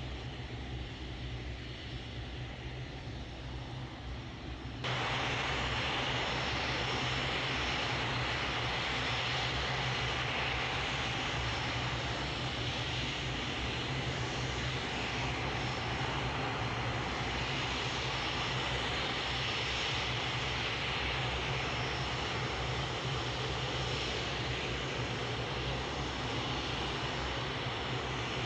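Airliner engines running steadily. The noise jumps abruptly louder about five seconds in and then holds steady.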